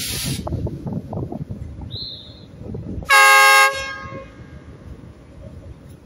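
A narrow-gauge locomotive's horn gives one short blast about three seconds in, over the low rumble and clatter of the train running along the track. A brief hiss is heard right at the start.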